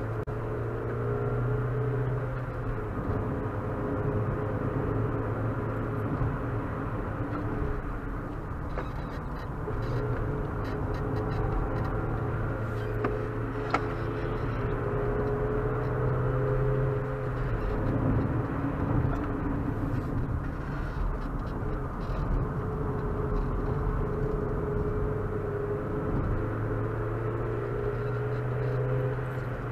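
Opel Astra 1.4's engine running steadily at track pace, heard from inside the cabin with road and wind noise, its note shifting a few times along the lap. A single sharp click about halfway through.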